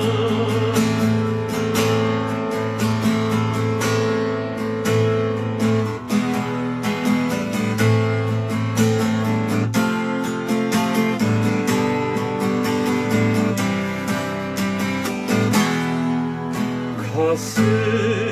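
Acoustic guitar strumming chords in a steady rhythm, an instrumental interlude with no singing.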